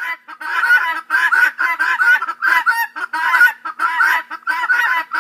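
Helmeted guinea fowl calling: a rapid, unbroken string of short, scratchy calls, several a second.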